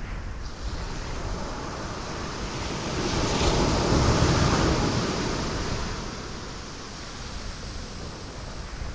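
Ocean waves breaking on rocks: the surf swells to its loudest about four seconds in, then falls back to a steady wash.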